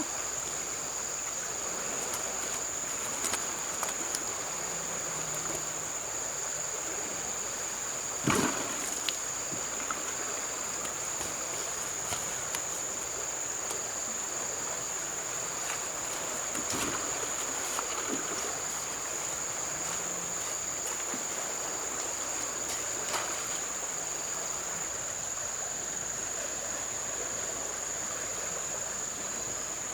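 River water sloshing and splashing, as from a small boat or nets being worked, with a few sharper splashes, the loudest about eight seconds in. A steady high thin whine runs underneath.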